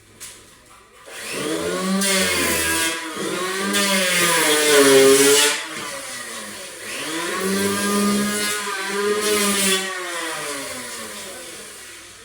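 Angle grinder running and cutting: its motor pitch sags under load and climbs back in two long passes, then the sound fades away near the end.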